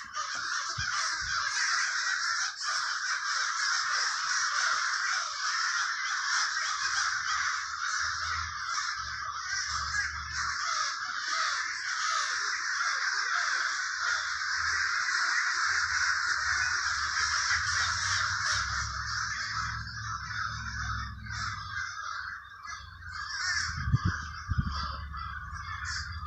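A large flock of crows cawing all at once, the calls overlapping into a continuous din, with a low rumble underneath and a short low bump near the end.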